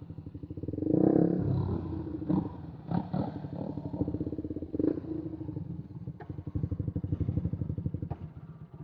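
Single-cylinder 125 cc motorcycle engine idling with an even firing pulse, rising briefly about a second in, with a few short clicks or knocks over it.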